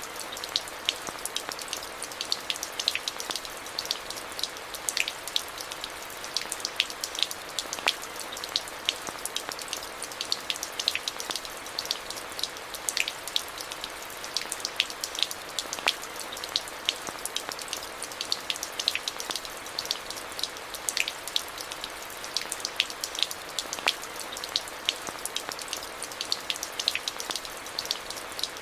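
Steady rain falling onto hard surfaces: a constant hiss with many close, sharp drop impacts and splatters.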